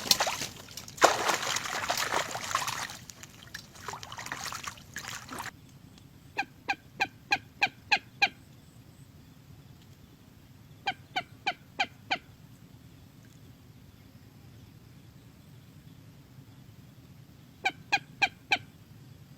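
Moorhen calling in quick runs of short notes, about three a second: six, then five, then four, several seconds apart. Before the calls come several seconds of loud rustling noise.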